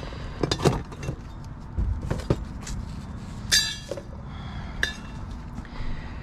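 Scrap items being handled and tossed in a dumpster: scattered clinks and knocks of hard plastic and metal pieces, with one brief ringing clink about halfway through.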